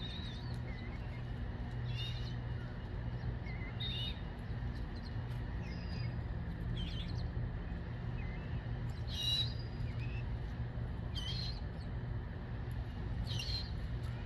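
Birds chirping, short high calls every second or two, over a steady low hum.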